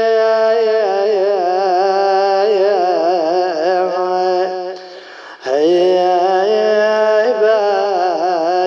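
A man's voice chanting a mournful Arabic elegy in long, drawn-out notes that waver and bend in pitch without words. It breaks off briefly for a breath about five seconds in, then resumes.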